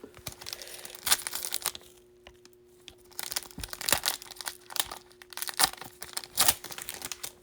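Crinkling of a trading-card pack wrapper and rustling of cards being handled, in a string of short, irregular rustles with a brief lull about two seconds in. A faint steady hum runs underneath.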